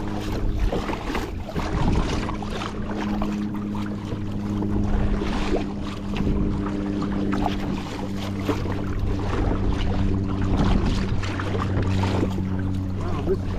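Kayak moving across calm harbor water: irregular paddle splashes and water noise over a steady low hum.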